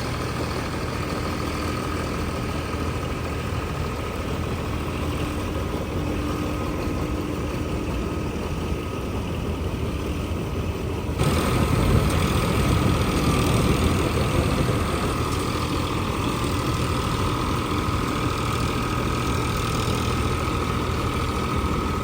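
Eicher combine harvester running steadily, an engine hum with a thin whine over it. About halfway through the sound jumps suddenly louder and fuller.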